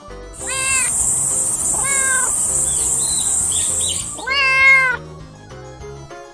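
Kitten meowing three times, each meow rising then falling, the last one about two-thirds of the way in the loudest, over background music. A high steady hiss runs under the first two meows and stops about two-thirds of the way in.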